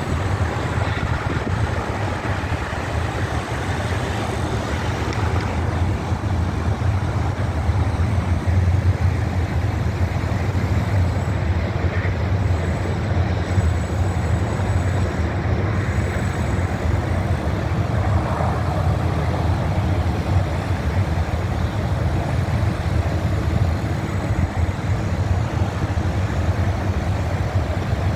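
Breeze blowing across the microphone: a steady low rumble of wind noise.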